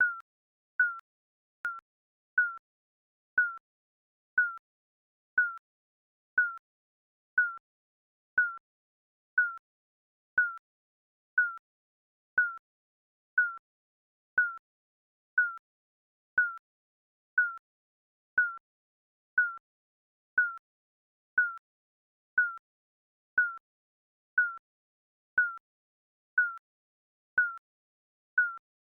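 Short electronic beep repeating about once a second, each a single mid-pitched tone that dips slightly in pitch: a digital countdown timer ticking off the seconds.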